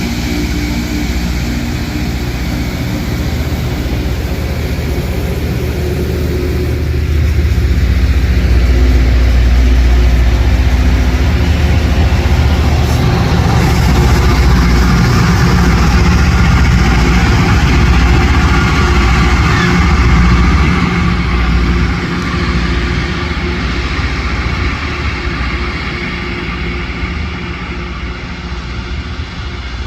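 LORAM rail grinder working the track: its diesel engines run under a steady, loud grinding hiss from the grinding stones on the rail. The sound swells about a quarter of the way in as the machine comes closest, then fades toward the end.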